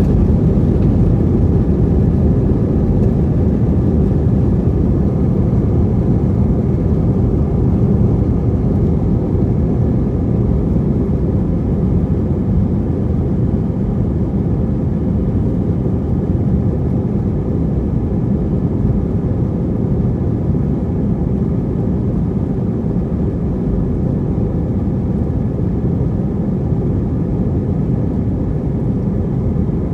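Steady low roar of a plane's engines and rushing air as heard from the cabin, easing slightly in level over the stretch.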